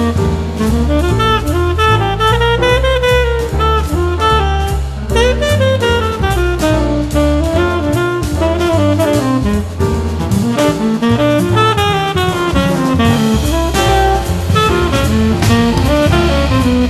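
Jazz instrumental break with no singing: a saxophone plays a melodic solo over drum kit and a low bass line.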